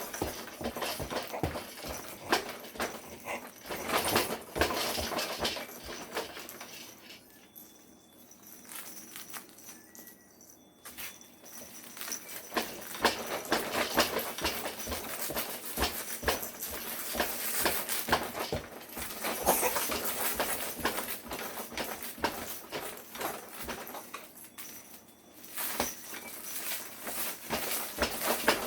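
Baby activity jumper in use: a dense, irregular run of clicks, taps and clatter, fading twice to quieter stretches, about a quarter of the way in and again near the end.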